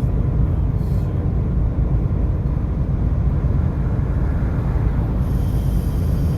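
Steady low rumble of a vehicle on the move: road and engine noise, even throughout.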